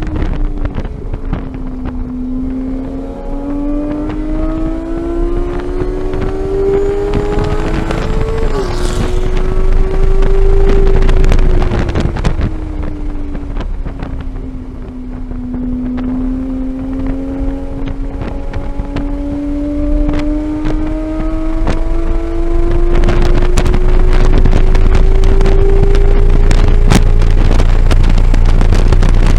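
2015 Porsche 911 GT3's naturally aspirated flat-six at full throttle on track: the revs climb, drop sharply at a quick upshift about eight seconds in, fall away under braking a few seconds later, then climb steadily again through a long pull, with wind noise over the engine.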